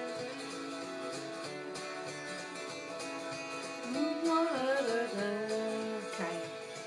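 Acoustic guitar playing a steady accompaniment. About four seconds in, a wordless sung line glides over it for a couple of seconds.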